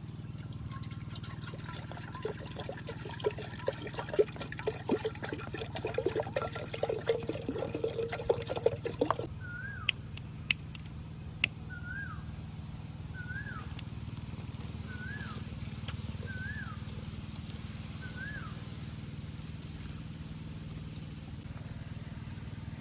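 Water pouring and trickling with small splashes for about nine seconds, then stopping. After that a bird calls six times, a short rising-then-falling whistle about every second and a half, over a steady low background hum.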